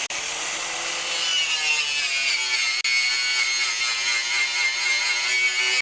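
Electric angle grinder with a wire-brush wheel running, scrubbing peeling paint and rust off the underside of a lawn tractor mower deck; its steady whine drops slightly in pitch about two seconds in.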